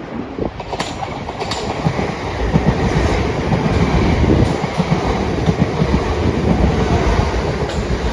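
A train passing close by, its noise rising sharply at the start and building over the first few seconds. Scattered sharp clicks from the wheels run over rail joints.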